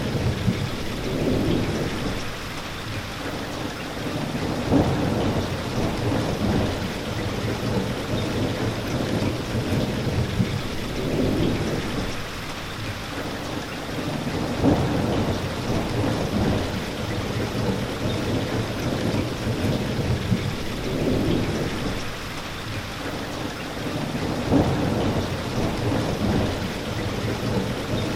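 Steady heavy rain, with low swells that rise and fall every few seconds underneath.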